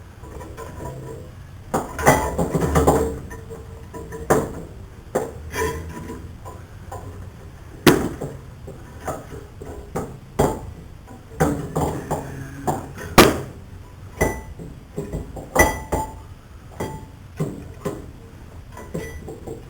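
Metal clinks and clanks of a wire coat hanger being hooked around a removed brake caliper and the suspension to hang it up: irregular knocks and taps, some with a short metallic ring.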